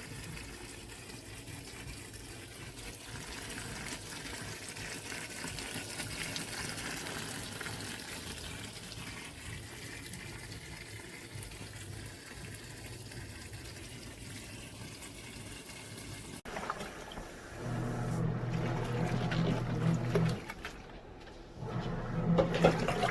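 Nictemaw portable washing machine running a wash-only cycle: water churning in the tub, then its wash motor humming in two runs of a few seconds with a short pause between.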